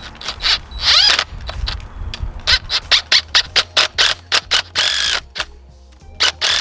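Hand tools working on a dirt bike's clutch cable fittings: a run of sharp metallic clicks, about five a second for a couple of seconds, with a few short squeaks, as the fittings are tightened and adjusted.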